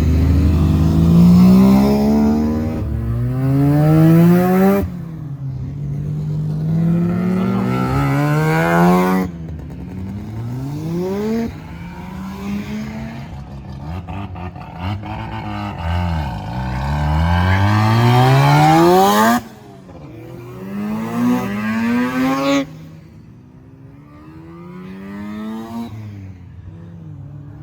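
Rotary-engined cars accelerating hard one after another, each engine's pitch climbing steeply in repeated rising sweeps before dropping back.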